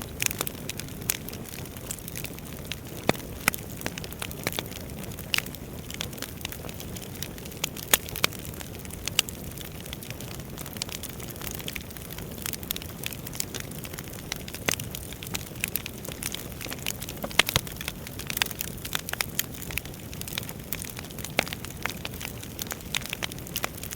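Wood fire burning in a fireplace: a steady low rush of flames under constant irregular crackling and sharp pops from the burning logs, a few pops louder than the rest.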